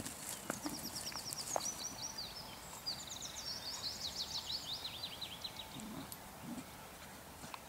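A songbird singing a long run of quick, high notes, each a short downward sweep, stopping about five and a half seconds in.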